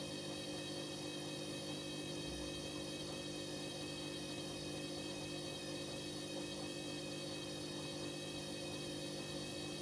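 Hoover H-Wash 300 washing machine running through its Auto Clean 60 drum-cleaning programme, giving off a steady electrical hum that does not change.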